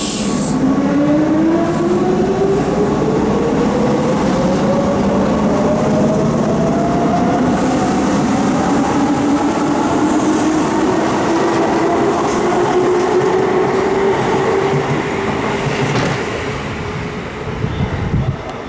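Keihan electric train pulling away from the platform: its traction motors whine, rising steadily in pitch as it accelerates, over the rumble of the cars. The sound begins to fade near the end.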